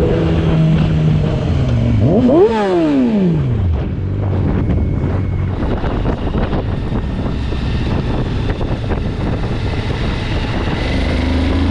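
Motorcycle engine running, revved sharply up and back down about two seconds in, then a steady rushing noise with the engine under it, and the engine pitch slowly rising again near the end as it accelerates.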